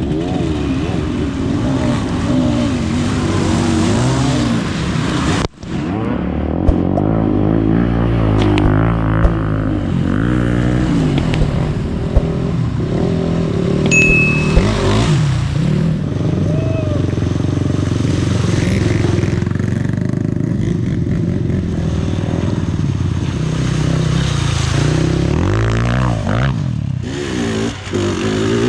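Off-road trail motorcycle engine running under way, its pitch rising and falling again and again as the throttle opens and closes, with a brief break about five seconds in.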